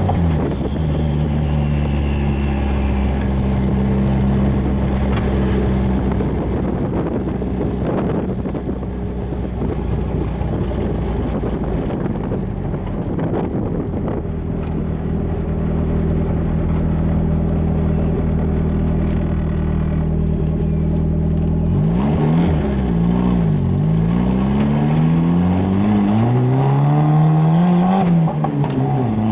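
Turbocharged Nissan SR20DE+T 2.0-litre four-cylinder running at a steady cruise, then revving up and down several times near the end, with a long climb in revs that drops sharply just before the end, as through gear changes.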